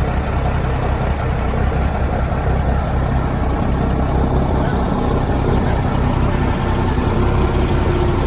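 Heavy truck's diesel engine running steadily with a constant low drone.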